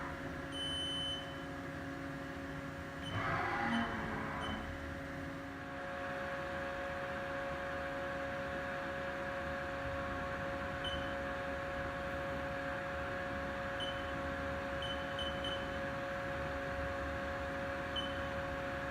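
Haas VF-5/40XT CNC vertical mill running under power: a steady machine hum, with a louder surge of noise about three seconds in and a steady tone that comes in about six seconds in and holds. Short high beeps sound now and then throughout.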